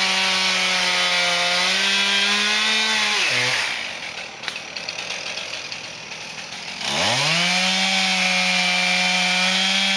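Two-stroke chainsaw running at high revs while cutting dead alder. About three seconds in it drops to a quieter idle, then revs back up about seven seconds in and runs steadily again.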